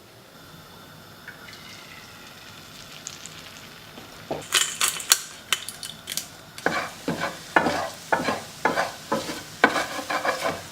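Egg whites frying in a pan with a low sizzle. About four seconds in come a few sharp clicks, then from about halfway a utensil scrapes and stirs them around the pan in regular strokes, about two a second.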